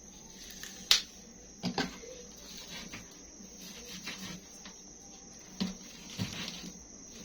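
Knife working through the joints of a frozen whole chicken: a few sharp clicks and knocks from the blade cracking the joints and striking the cutting board. A steady high-pitched whine runs underneath.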